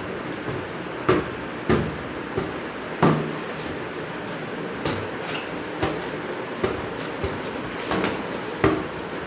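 Irregular knocks and bumps from things being handled, about one a second, over a steady hiss.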